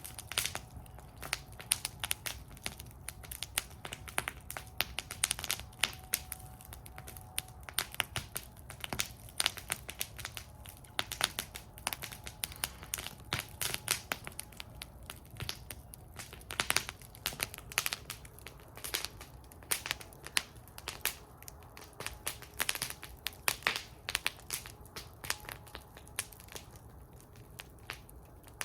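Wood fire burning in a fire bowl, crackling with many irregular sharp pops and snaps over a steady low rumble of the flames.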